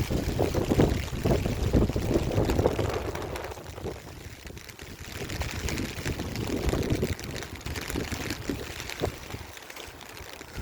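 Strong gusty wind buffeting the microphone, a rumbling rush that swells in a heavy gust over the first few seconds and again around six to seven seconds in.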